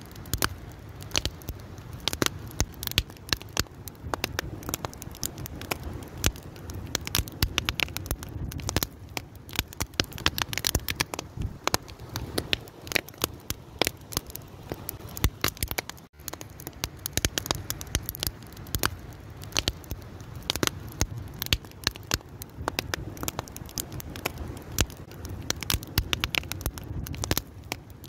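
Wood fire burning steadily, with dense irregular crackles and pops over a low rumble of flame. There is a brief dropout about halfway through.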